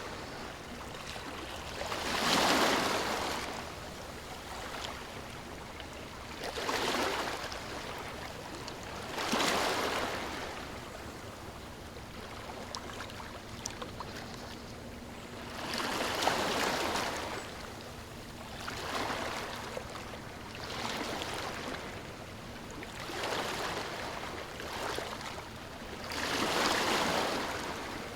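Ocean waves washing ashore in soft, repeated swells of surf noise, about eight in all, each rising and falling over a second or two, with a faint steady hiss between them.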